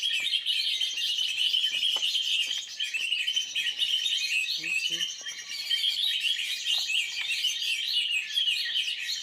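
Dense, unbroken chorus of small forest birds, many chirps and twitters overlapping at once.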